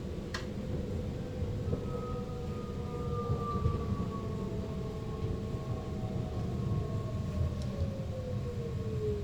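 SLT (Sprinter Lighttrain) electric multiple unit heard from the driver's cab: traction motor whine gliding slowly down in pitch as the train slows, over a steady low running rumble. A single click about half a second in.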